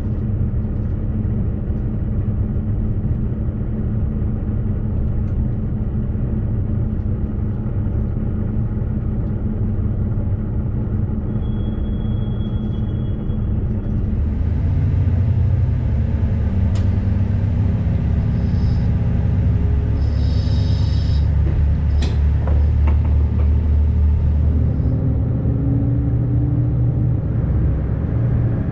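JR Shikoku 2700 series diesel railcar running, a steady rumble of its diesel engine and wheels on the rails. The engine note changes about halfway through and then rises in pitch near the end. A thin high whine runs through the middle, with two sharp clicks.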